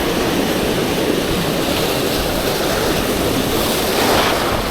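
Waves breaking and washing on the beach with strong wind buffeting the microphone, a steady rushing noise that swells a little near the end.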